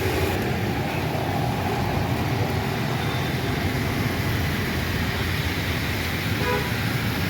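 Steady road traffic noise, with a vehicle horn sounding briefly about six and a half seconds in.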